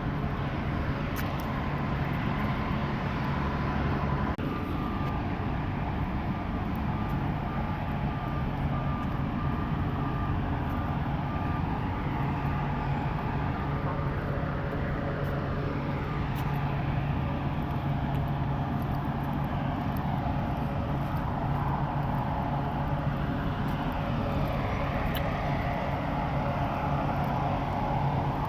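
A steady low mechanical drone, like a distant engine, holding an even level throughout, with faint higher tones slowly drifting in pitch.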